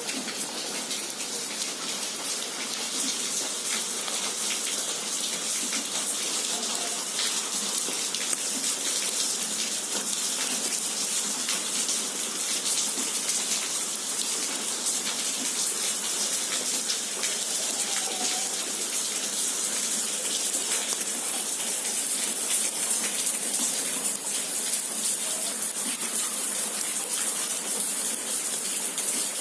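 Steady hiss of rainwater on a wet street, with fine patter-like ticks throughout.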